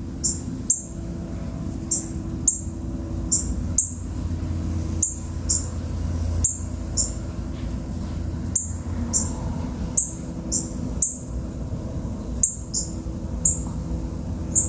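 Birds chirping: short, high chirps repeating irregularly about once or twice a second, over a steady low hum.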